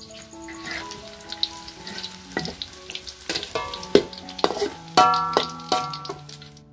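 Chillies and garlic sizzling in hot oil in a metal wok while a perforated metal spatula stirs them, scraping and clacking against the wok, with a few sharper knocks as the fried pieces are scooped out.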